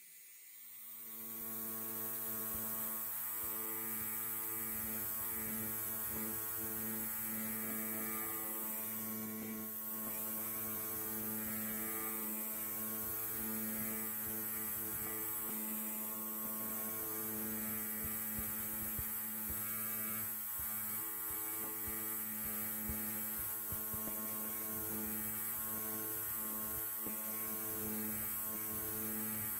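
Electric hair clipper running with a steady buzz, fading in over the first couple of seconds.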